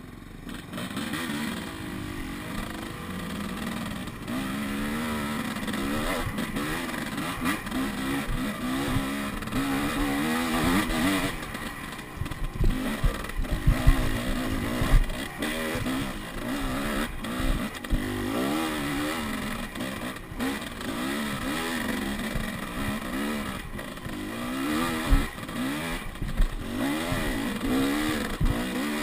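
Enduro dirt-bike engine revving up and falling back over and over as it is ridden, with a few sharp knocks in the middle and near the end.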